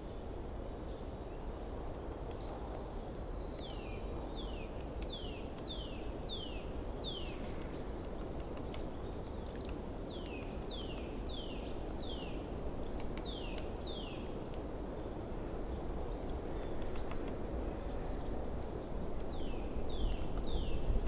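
Forest stream water running steadily, with a bird calling in runs of three to five short, falling whistled notes, repeated several times.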